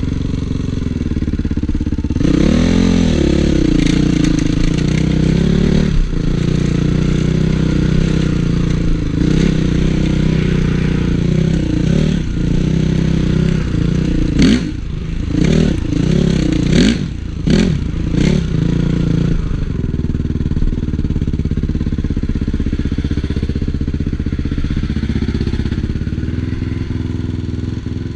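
Honda CRF450 motocross bike's single-cylinder four-stroke engine under riding load, revving up and down with the throttle. In the middle comes a run of quick throttle blips and cuts, then steadier running again.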